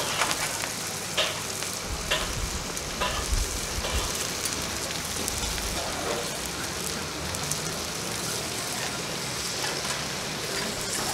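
Pork spinal cord and scallions sizzling steadily in hot oil in a wok over a gas burner, with a few sharp pops and clicks in the first few seconds.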